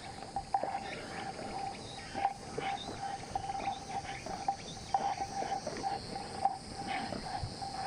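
Insects calling steadily: a mid-pitched trill that pulses irregularly over a steady high hiss, with scattered small clicks.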